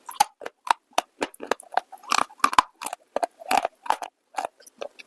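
Close-miked crunching and chewing of brittle baked clay, a rapid irregular run of sharp crisp cracks, several a second.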